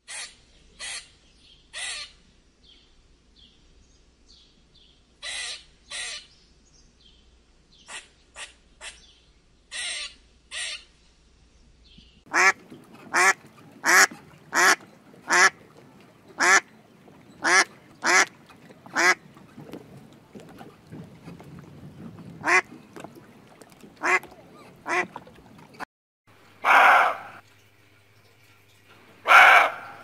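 A squirrel's short, sharp calls come in scattered clusters, followed by a female mallard duck quacking in a run of about two quacks a second that thins out into a few single quacks. Near the end come two longer, louder animal calls.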